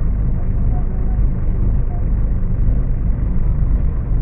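Scania K250UB city bus engine running under way, a steady low drone, heard from inside the bus through a phone microphone.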